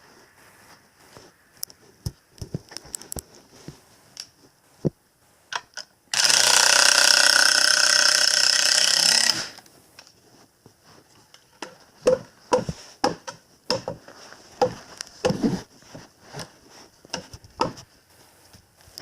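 A small power tool's motor runs loud and steady for about three seconds, near the middle. Before and after it come scattered clicks and knocks of tools and parts being handled.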